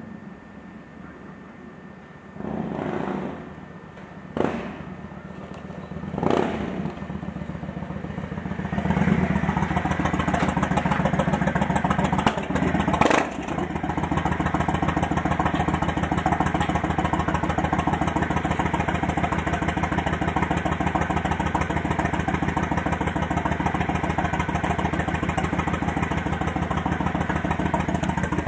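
Honda Shadow Aero 1100 V-twin with a single-pin crank and Cobra aftermarket exhaust. At first it is fainter, with three short surges of engine sound. From about nine seconds in it runs loud and steady close by, with an even lumpy exhaust pulse and one brief blip partway through.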